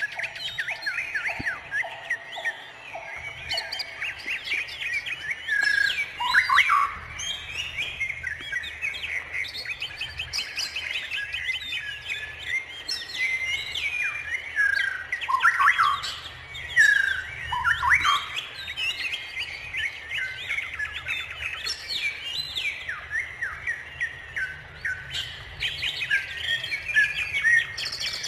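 Chorus of many birds chirping, trilling and calling over one another without pause, with a short run of lower repeated notes in the first few seconds.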